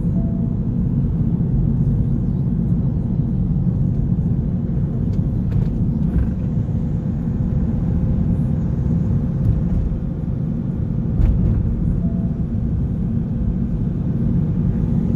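Car driving at a steady speed: a continuous low engine and road rumble with no change in pitch.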